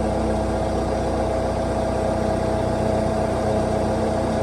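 Skid-steer loader's engine running at a steady speed, an even hum with no revving, as the machine keeps turning.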